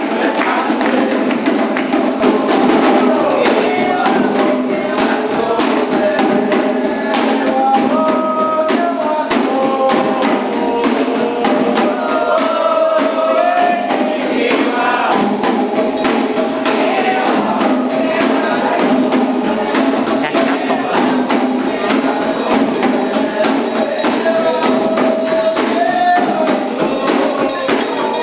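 Candomblé ritual music: voices singing a chant over fast, dense percussion, with no breaks.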